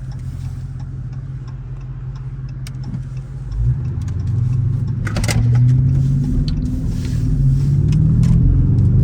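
Dodge Charger R/T's 5.7-litre HEMI V8 idling steadily, then about three and a half seconds in it gets louder and its note shifts up and down as the car moves off, with a few sharp clicks around the middle.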